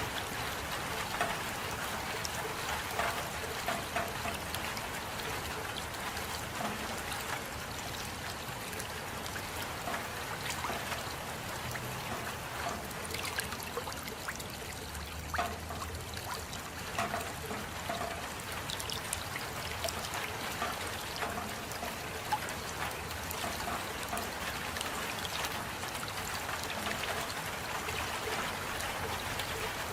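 Steady rain, with many individual drops landing close by over the even hiss.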